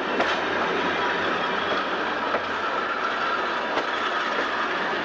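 Stainless-steel passenger railcar rolling slowly past along the platform: a steady rumble of wheels and running gear, with a few scattered clicks as the wheels cross the rail joints.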